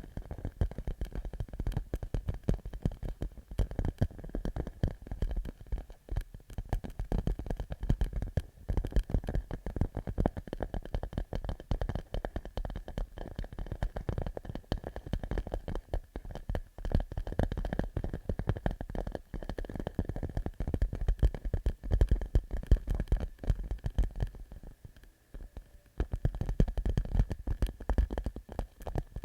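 Fingertips tapping rapidly on a clear plastic pouch, a dense run of soft taps that sounds like popcorn being made. The tapping pauses briefly about 25 seconds in, then starts again.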